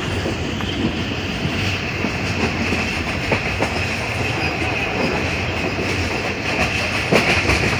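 Passenger train running at speed, heard from a coach window: a steady rumble and rush with wheels clicking over the rail joints, and a few sharper clacks near the end.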